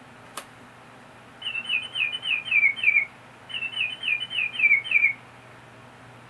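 Toy canary chirping in two bursts of about six quick, falling chirps each, with a short pause between them, after a single faint click near the start.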